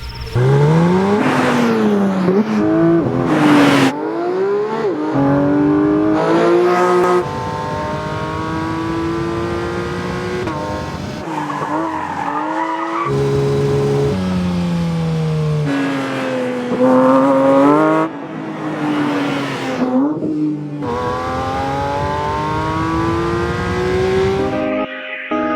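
Porsche 911 GT3's 4.0-litre naturally aspirated flat-six engine revving hard, its pitch climbing and dropping again and again through gear changes, in a string of short clips that cut abruptly from one run to the next.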